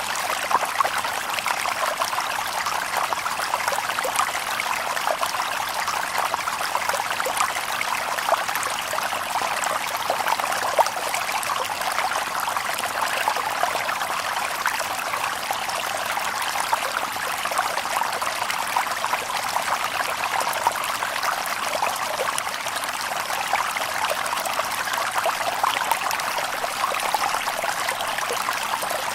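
Shallow river water babbling over stones, a steady rush with many small splashes and trickles.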